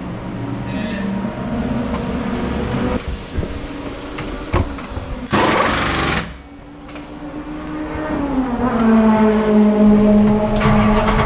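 Mercedes SLS AMG GT3's V8 engine running at idle in the cockpit, with a loud rush of noise about five seconds in; after that the idle holds a steady note that drops to a lower pitch about eight seconds in.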